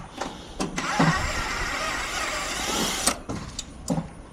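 Hand work on an HVAC condenser unit as its run capacitor is taken loose: a handful of clicks and knocks of metal parts, with a rough noise lasting about two seconds in the middle.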